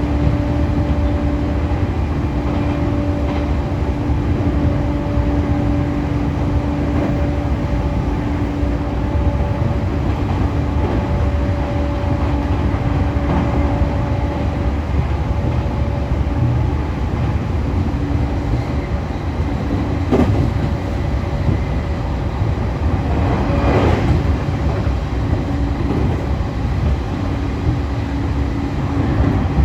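Running sound of a JR East E531-series electric train, heard inside the car: a steady rumble of wheels on the rails under a steady hum from the Hitachi IGBT inverter-driven traction motors. The hum breaks off for a few seconds in the middle and comes back, and a couple of brief knocks come from the track later on.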